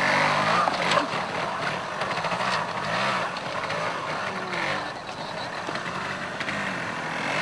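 Motorcycle engine being blipped up and down at low speed, its pitch rising and falling repeatedly, as it is ridden over rough ground in a trials section. A few sharp knocks come about a second in.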